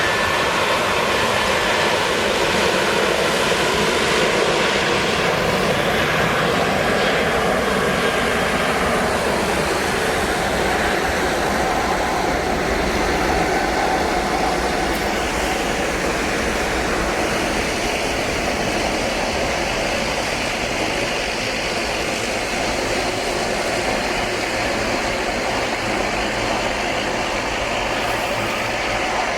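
Airliner jet engines running: a steady rushing noise with faint whines that drift slowly in pitch.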